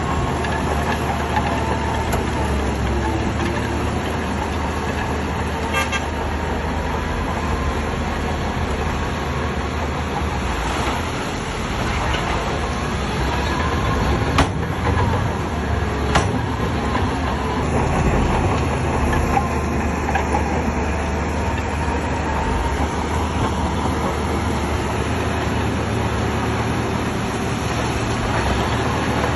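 Shantui bulldozer's diesel engine running steadily under load while it pushes stone, with a wavering squeal from the steel tracks and two sharp knocks about halfway through.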